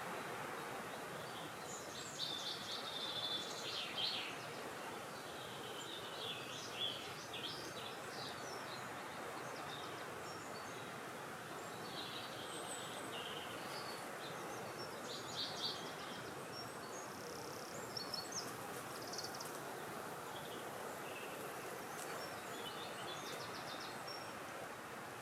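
Small birds chirping and trilling in short, high phrases scattered throughout, over a steady hiss of wind.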